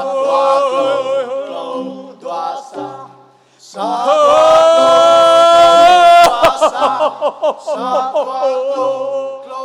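Bahnar folk song: a man's singing voice with a long, loud held note in the middle, over short repeated notes of a t'rưng bamboo xylophone ensemble.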